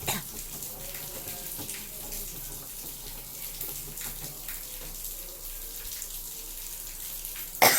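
LG 6 kg front-loading washing machine mid-wash: water sloshing steadily as the drum tumbles the load. A short loud sound comes right at the end.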